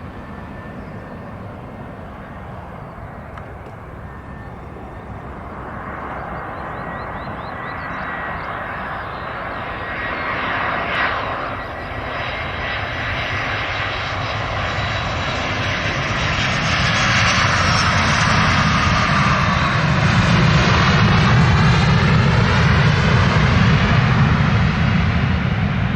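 Airbus A320 airliner's jet engines, a steady rushing noise that grows louder over about twenty seconds.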